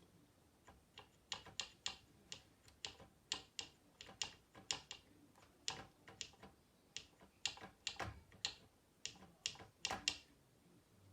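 Irregular clattering ticks, about two or three a second, some much louder than others, starting about a second in and stopping just before the end: the rattle of a faulty PC power-supply fan.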